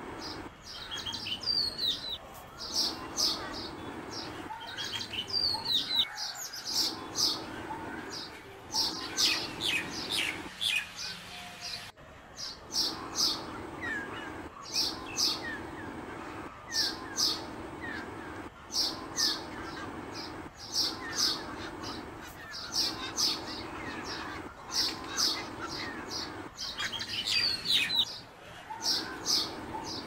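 Birds chirping: short, sharp high-pitched notes in quick clusters of two or three, repeating every second or so, over a faint steady hum.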